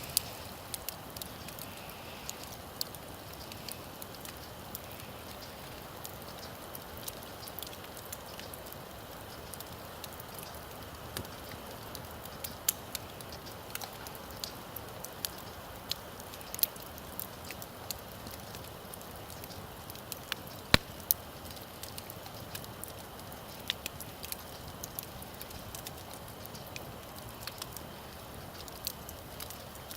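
Campfire burning: a steady hiss with many scattered crackles and pops, the loudest pop about two-thirds of the way through.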